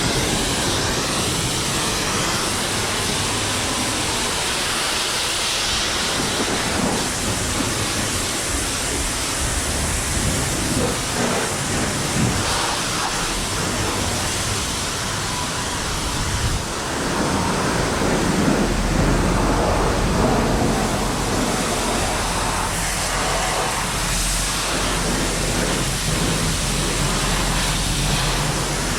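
High-pressure spray wand of a coin-operated self-service car wash, a steady loud hiss of water jetting whose sound shifts now and then. A low hum joins a little past halfway.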